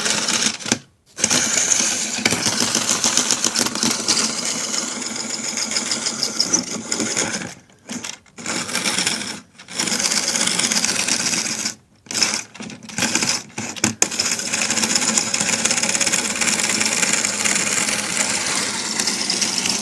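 Bachmann HO scale model locomotive running on its track: the small electric motor and gears whirring with a rapid clatter of the wheels on the rails. The sound cuts out briefly several times.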